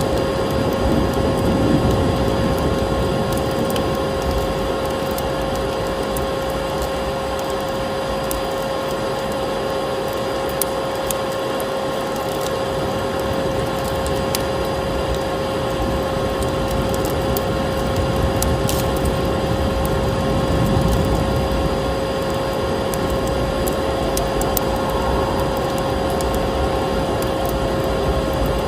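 Vacuum cleaner running steadily with a constant motor whine and airflow hiss, mixed with a wood fire crackling and popping in irregular small snaps.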